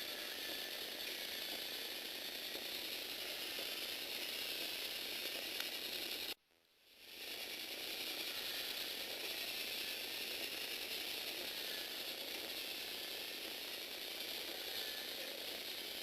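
Plastic Lego Technic gears and linkages running steadily in a dense, fast clatter. The sound cuts out abruptly about six seconds in and fades back up within a second.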